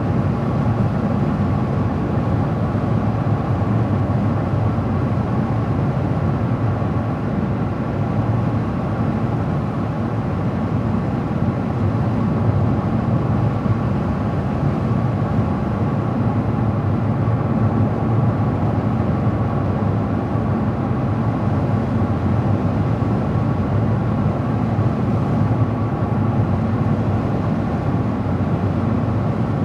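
A car driving at a steady speed: continuous tyre and engine noise with a faint steady whine, unchanging throughout.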